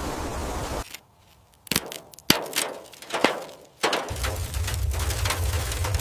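A steady hiss that cuts off, then four sharp bangs with short ringing, spaced about half a second to a second apart, followed by a low rumble with many small clicks.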